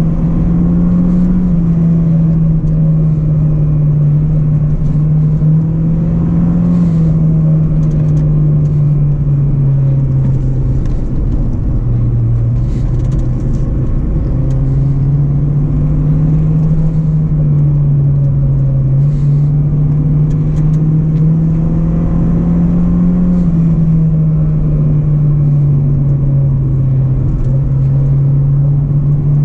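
2005 Acura RSX Base's 2.0-litre four-cylinder engine running under load while driving, its note slowly rising and falling in pitch with the throttle, dipping briefly about twelve seconds in before climbing again.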